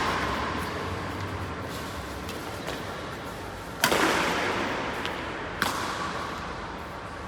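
Two sharp cracks of a badminton racket striking a shuttlecock, about two seconds apart in the second half, each followed by a short echo.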